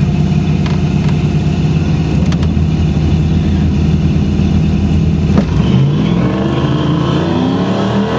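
Chevrolet Camaro LT1 V8 running steadily, then about five and a half seconds in a sharp thump and the engine revs climbing hard under acceleration. Near the end the revs drop and climb again: a firm upshift by the freshly rebuilt 4L60E automatic transmission.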